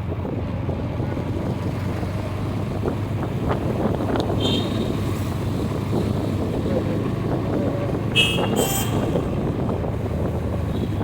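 Motorcycle riding in traffic: a steady engine and road drone with wind on the microphone. Short horn toots sound about four and a half seconds in and twice more around eight seconds in.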